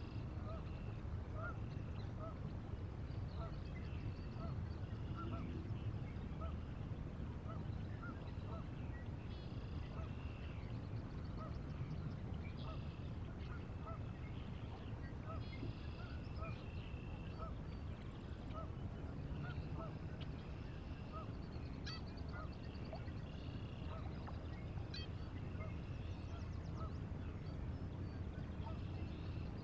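Wild birds calling: a short call repeats about once a second, with bursts of higher, chattering calls now and then, over a steady low rumble.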